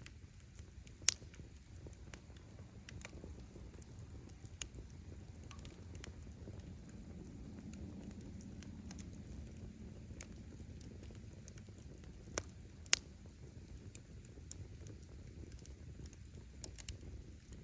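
Wood campfire burning with a low steady rumble of flame, punctuated by scattered sharp pops and crackles of the firewood; the loudest snaps come about one second in and twice more near the end.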